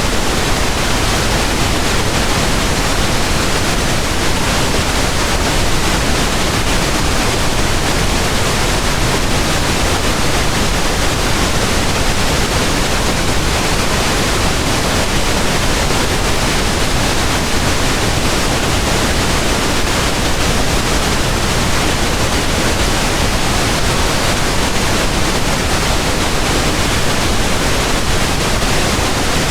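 Steady pink noise: an even, unchanging hiss spread across low and high pitches, with no events or changes.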